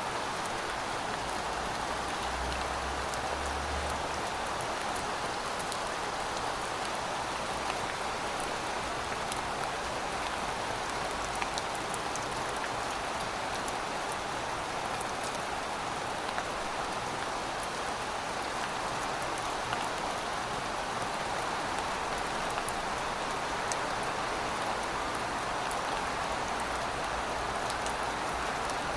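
Heavy rain falling steadily, an even hiss of rainfall with scattered sharp drop ticks through it.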